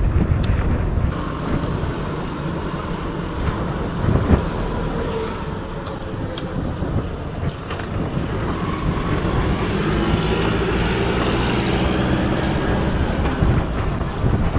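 City road traffic and wind rush heard from a moving bicycle, a steady rumble with a few sharp clicks. From about ten seconds in, a motor vehicle's engine drone comes up over it.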